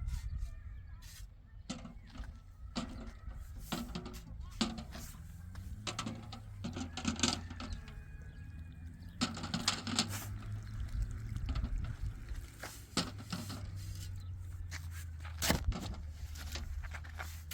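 Scattered knocks, clicks and scrapes, irregular and in small clusters, over a steady low rumble.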